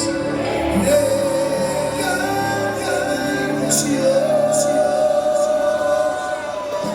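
Live band music with long, held sung notes.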